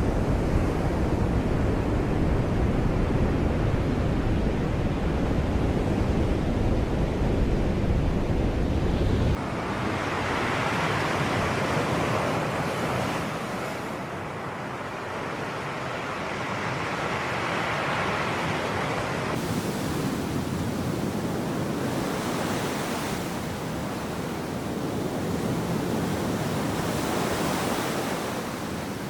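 Sea surf washing in and drawing back, with wind rumbling on the microphone for about the first nine seconds. The rumble then drops out suddenly, and the waves swell and ebb in long surges.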